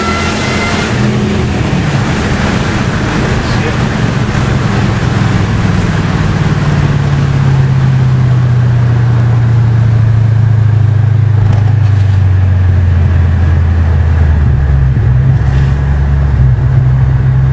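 Car engine running at a low steady drone while driving, with road and wind noise heard from inside the cabin; the drone drops in pitch about a third of the way in and again near the end as the sound grows a little louder.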